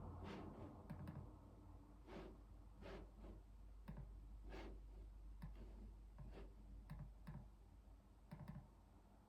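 Typing on a computer keyboard: slow, uneven keystrokes, about one or two a second, each a deep clack.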